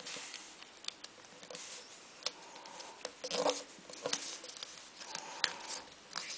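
Paper being creased and handled while folding origami: irregular crinkles, rustles and sharp creasing clicks, with a louder rustle about halfway through.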